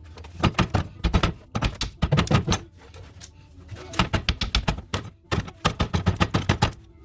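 Rapid sharp knocks, several a second, in three bursts of about a second or two each with short pauses between.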